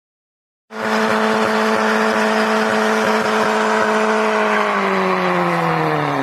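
Car engine held at high, steady revs, cutting in abruptly after a moment of silence; its pitch sags in the last second or so.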